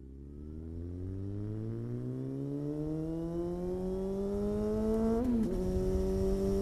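Sport bike engine accelerating. Its pitch rises steadily and it grows louder, then dips briefly about five seconds in and holds steady.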